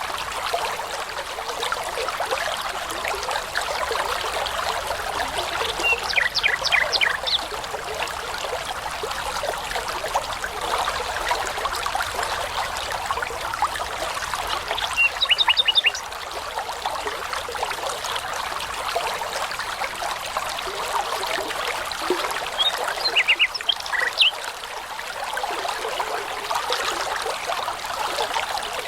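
Babbling brook running steadily. A songbird sings three short phrases of quick, high repeated notes, about nine seconds apart.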